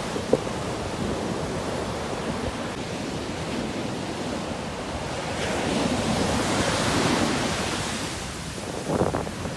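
Sea waves washing onto the shore, one wave building to a loud rush of surf a little past halfway and then receding, with wind on the microphone.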